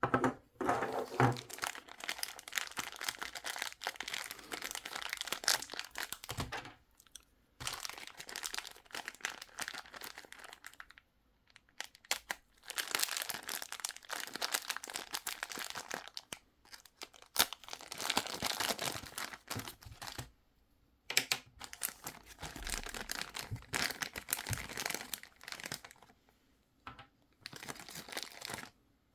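Crinkling of thin plastic packaging being handled and pulled at, in bursts of a few seconds with short pauses between.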